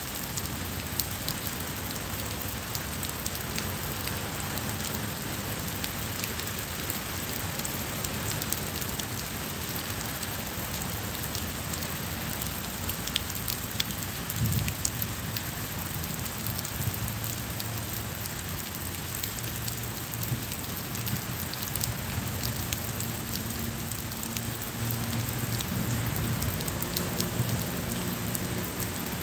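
Steady rain falling on stone paving and plants, with many sharp drop ticks. A low rumble swells about halfway through and again toward the end.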